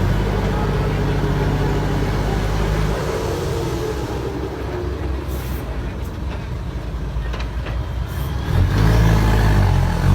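Heavy diesel trucks running, a deep steady engine drone that drops away about three seconds in and returns loudest near the end. A few short hisses in between, typical of air brakes.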